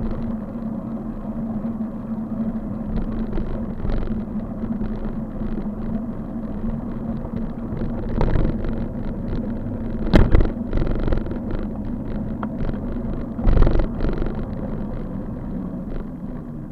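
Steady riding noise from a bike on the road: a constant hum with low rumble and wind, and two loud thumps about ten and thirteen and a half seconds in.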